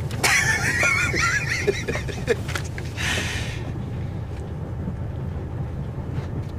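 Steady low rumble of a moving train heard from inside the carriage. For the first two seconds a high, wavering, squeal-like tone rides over it, and a brief hiss comes about three seconds in.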